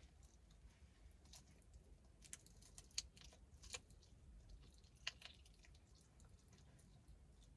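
Faint chewing and wet mouth clicks and smacks as fried chicken is eaten off the bone, with a handful of short, sharp smacks spread through, the loudest about three seconds in.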